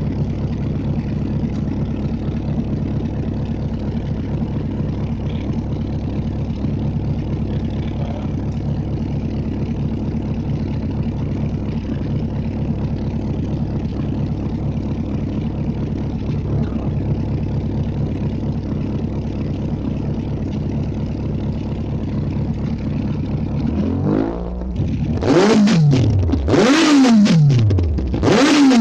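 Kawasaki Z800 inline-four engine idling steadily through an SPR Racing aftermarket exhaust, then blipped hard three times near the end, each rev rising quickly in pitch and falling back.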